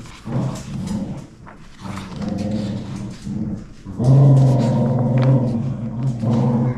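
A dog making low, drawn-out growling and whining sounds in three stretches, the longest and loudest starting about four seconds in.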